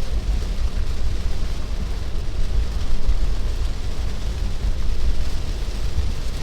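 A car driving in heavy rain: a steady low rumble of tyres on the wet road with an even hiss of rain and spray over it.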